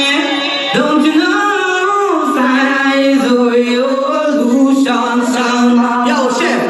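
A voice singing long held notes that slide from pitch to pitch, with little or no bass beneath it.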